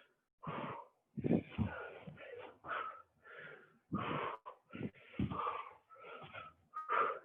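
A person breathing hard in short, uneven gasps and puffs while exercising at high intensity, with a few dull low thuds among the breaths.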